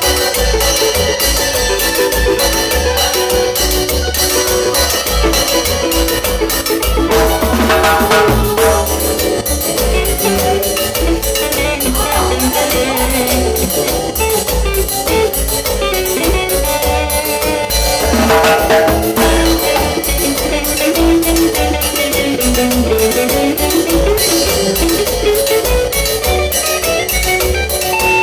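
Live cumbia band music: a steady, dense percussion beat under a melody.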